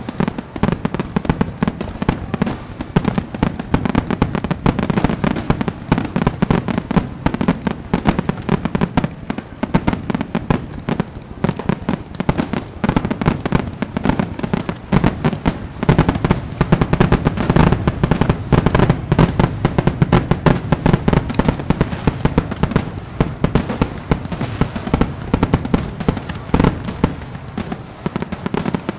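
Fireworks going off in a dense, continuous barrage of bangs and crackles, heaviest a little past the middle.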